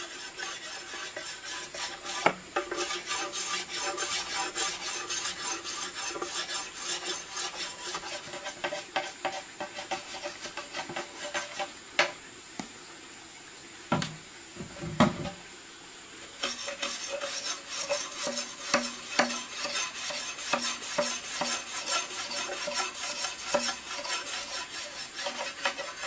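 Rapid scraping and rubbing strokes with light clinks, like hand work with a tool or utensil. It goes quiet for a few seconds about halfway through, apart from a couple of dull knocks, then resumes.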